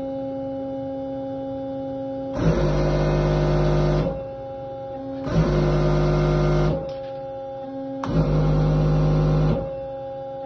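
Bosch servo valve running on a hydraulic test stand: a steady hum, and about every three seconds a louder surge of flow and pump noise lasting about a second and a half, as the valve is cycled.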